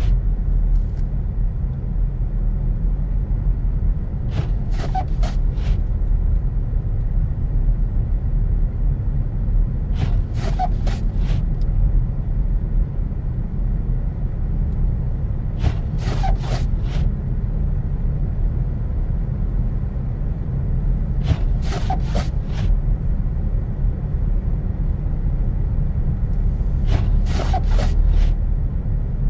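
Car driving on snowy roads with a steady low rumble of engine and tyres. About every six seconds the windshield wipers make a sweep, heard as a short cluster of clicks and a brief squeak, in a slow intermittent rhythm.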